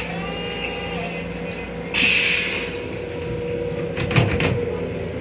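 Steady running hum of a Long Island Rail Road M7 electric railcar, heard inside its restroom. A short hiss comes about two seconds in, and a cluster of plastic knocks and clatter around four seconds in as the toilet lid is handled and lifted.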